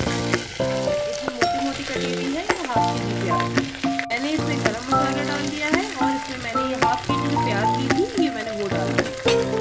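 Sliced onions frying and sizzling in hot oil with whole spices in an aluminium pressure cooker, stirred with a steel spoon. Background music with a melody of held notes plays over the sizzle.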